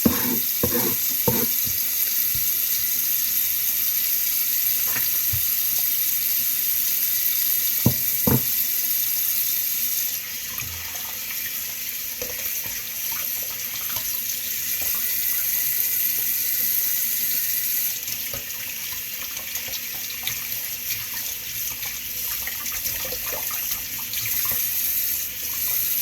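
Kitchen tap running into a sink, a steady hiss of water that drops in level about ten seconds in and again about eighteen seconds in. A few short knocks sound in the first second and around eight seconds.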